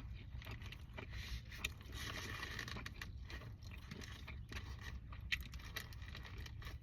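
Faint crinkling, scraping and biting sounds of a breakfast burrito being handled in its wrapper and eaten, with scattered small clicks over a low steady hum.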